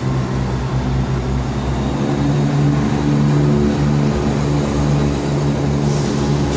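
Diesel locomotive engine running loud and steady as a long train passes, a powerful drone whose note shifts slightly about two seconds in.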